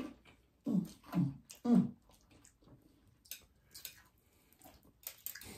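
Close-miked wet eating sounds of fried chicken: three short, louder mouth sounds in the first two seconds, then quieter chewing, lip-smacking and finger-licking clicks.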